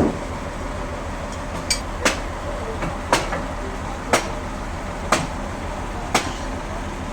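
Sawmill machinery running with a steady low hum, broken by a sharp knock about once a second.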